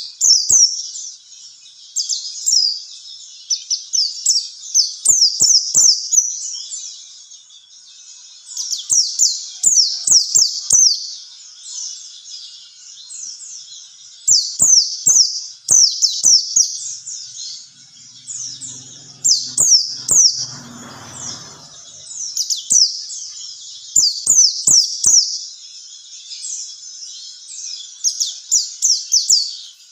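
White-eye (pleci) singing: phrases a few seconds long of rapid, high, quickly falling chirps, separated by short pauses.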